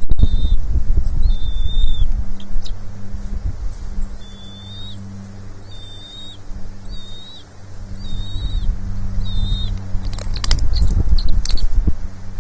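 Bald eagle giving a run of short, high chirping calls, about one a second, over a steady low hum. Near the end, a quick cluster of sharp clicks and knocks.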